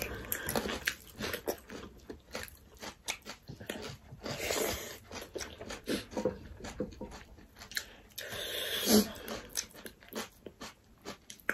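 Close-miked biting and crunchy chewing, many small crisp clicks one after another, as raw cucumber and other food are bitten and chewed. Two short breathy hisses come about four and a half and nine seconds in.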